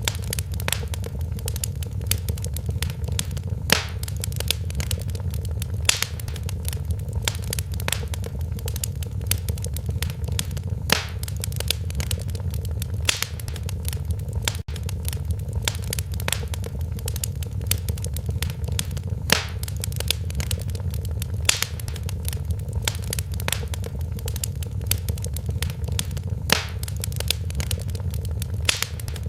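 Fireplace fire crackling, with sharp irregular pops over a steady low rumble.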